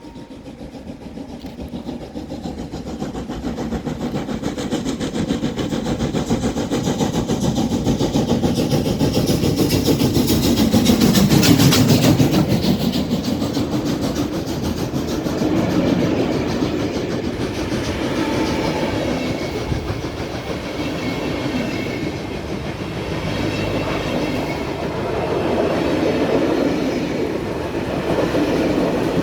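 Steam-hauled train passing: locomotive exhaust with wheels clattering over the rail joints. It grows louder over the first ten seconds or so, then stays loud as the train runs by.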